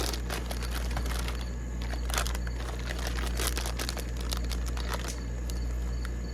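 Corn chips crinkling and clicking as handfuls are dropped into a bowl, in a run of scattered crisp crackles. A steady low hum runs underneath, and an insect starts chirping in regular pulses near the end.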